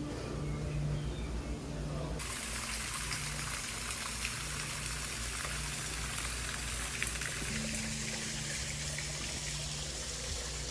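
Rushing water, a steady hiss that cuts in suddenly about two seconds in, with low steady tones underneath.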